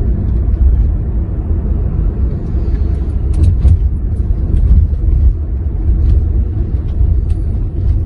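Steady low road rumble inside a moving car's cabin, with a few faint clicks about three and a half seconds in.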